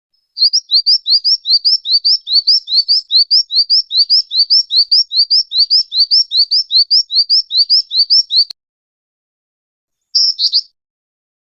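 Jinjing batu (black-winged flycatcher-shrike) calling: a fast, even string of short, high, rising chirps, about five or six a second, that stops abruptly after about eight seconds, followed near the end by one brief burst of the same notes.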